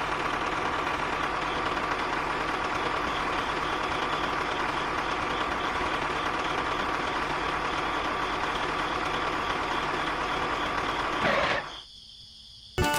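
Small electric motor of a DIY mini machine running steadily with a faint whine, cutting off near the end.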